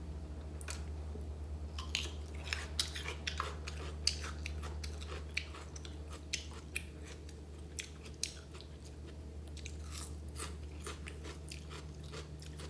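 A person chewing and biting food close to the microphone, with many small crunchy mouth clicks, over a steady low hum.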